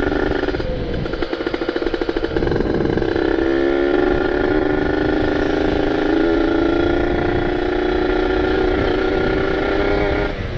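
Kawasaki Ninja 150 RR's ported single-cylinder two-stroke engine being ridden. It runs rough and uneven at first, revs up in short steps about three and a half seconds in, then holds steady high revs, rising slightly, until the throttle eases off just before the end.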